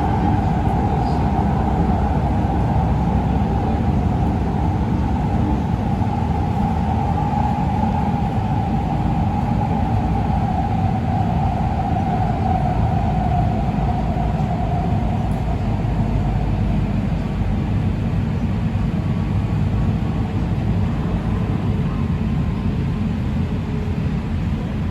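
LA Metro light-rail train running, heard from inside the car: a steady low rumble of wheels on track, with a motor whine that slowly drops in pitch and fades out about two-thirds of the way through as the train slows for the next station.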